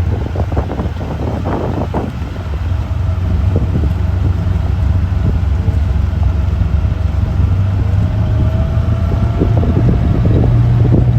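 Car driving, with a steady low engine and road drone, wind buffeting and scattered rattles; it grows a little louder and a faint whine rises slowly near the end as the car picks up speed.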